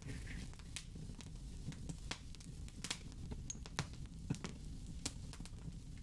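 Wood fire burning in a fireplace: a low steady rumble of flames with sharp crackles and pops scattered throughout, several of them louder.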